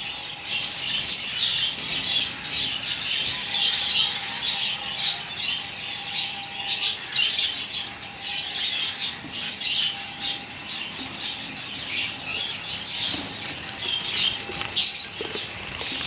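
A flock of Java sparrows chirping, with many short high calls overlapping in a continuous chatter. A faint steady hum sits underneath.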